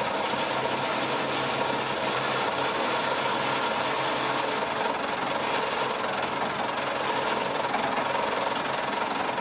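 Colchester Master lathe running steadily under power, a continuous hum with a steady whine, while a small centre drill cuts into the end of a bar held in the chuck.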